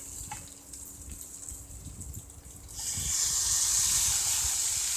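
Chopped tomatoes frying in hot oil in a steel pot with sautéing radish and shallots: fairly quiet at first, then a loud, steady sizzle starts abruptly about three seconds in as the tomatoes go in.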